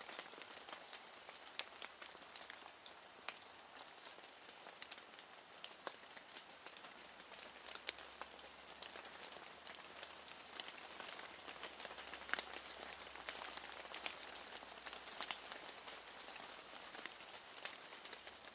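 Steady light rain hiss with scattered individual drops ticking against a window pane.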